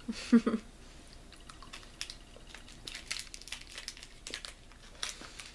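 A brief murmur of voice at the start, then scattered soft crinkles and small clicks of candy wrappers being handled while chocolate is tried.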